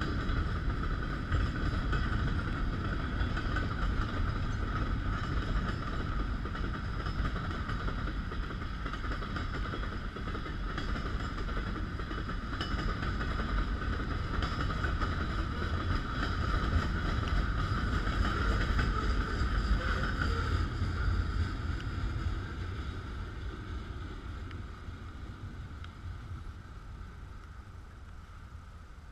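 Freight train cars rolling past on the rails: a steady low rumble of wheels on track with a steady high-pitched whine above it, fading over the last several seconds as the end of the train goes by.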